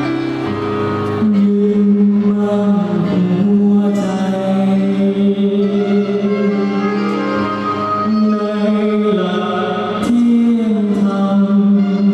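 A choir singing a slow song in harmony, voices holding long sustained notes and moving together from chord to chord.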